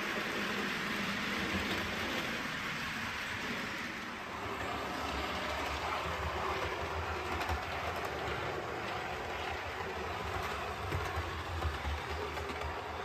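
OO gauge model diesel locomotive running along the layout's track, a steady run with a low hum that grows about four seconds in and occasional small clicks from the wheels on the rails.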